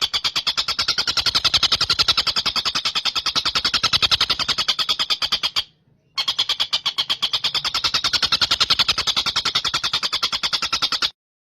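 Tengkek buto calling in a long, fast trill of rapidly repeated high notes, breaking off briefly about six seconds in and again near the end.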